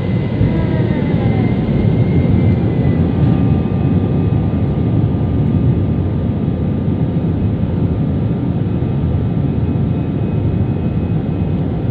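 Passenger airplane heard from inside the cabin: steady, loud engine and airflow rumble with a faint whine.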